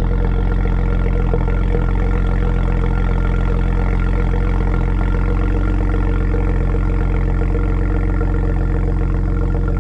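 BMW N54 twin-turbo inline-six idling steadily at an even pitch, running on freshly fitted NGK spark plugs.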